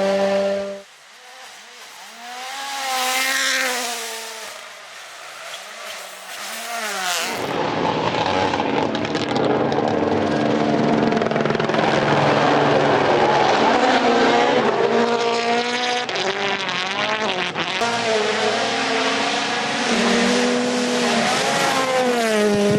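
Rally car engines running hard, several short clips cut together. First a quieter pass with the revs rising and falling, then from about seven seconds in, a loud, close engine at full throttle with the revs climbing and dropping between gears.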